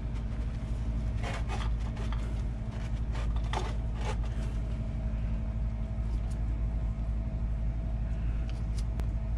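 A steady low mechanical hum with a faint held tone runs throughout. In the first few seconds, short clicks and rubbing sounds come as PVC pipe is pressed into a glued fitting.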